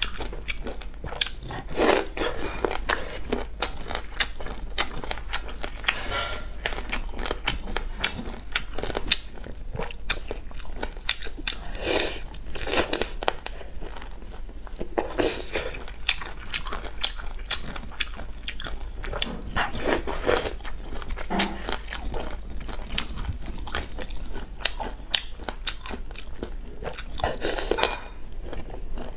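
Close-miked biting and chewing of boneless chicken feet in chili sauce: wet mouth smacking with frequent crunches of cartilage, in irregular clusters, over a steady low hum.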